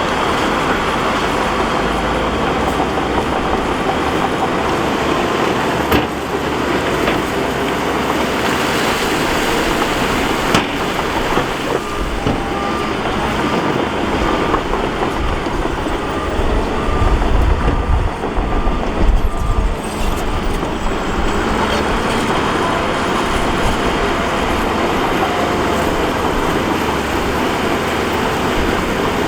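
Heavy earthmoving machinery at work: diesel engines running under load with rock and gravel being pushed and scraped. A deep rumble swells for a few seconds around the middle, and there are a couple of sharp knocks.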